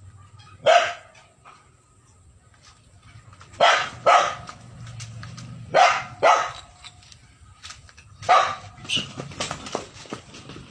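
Dog barking: about six loud, sharp barks, several in quick pairs about half a second apart, with quieter yips trailing off near the end.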